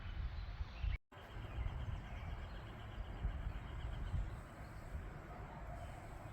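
Outdoor ambience: a steady low rumble with a faint, rapidly repeated high chirping. The sound cuts out briefly about a second in.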